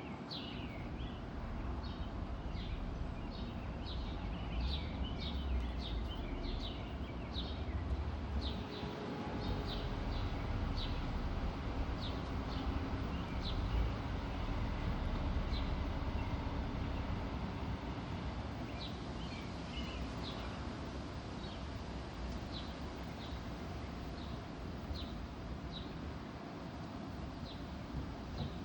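Birds chirping: short high chirps come thick and fast for the first dozen seconds or so and more sparsely after that, over a steady low rumble.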